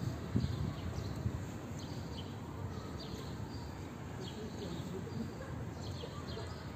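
Small birds chirping again and again over a low, steady outdoor rumble.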